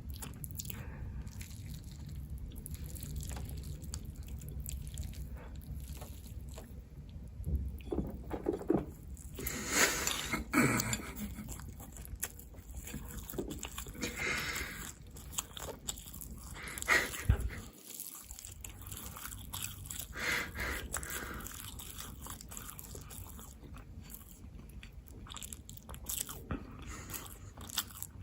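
Close-miked eating: a person chewing and biting food, with irregular crunchy bites and wet mouth sounds, and a few louder bites in the middle.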